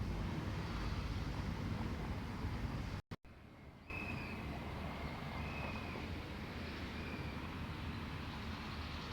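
Steady low rumbling outdoor noise that drops out briefly about three seconds in; after it comes back, a few short high chirps sound over it.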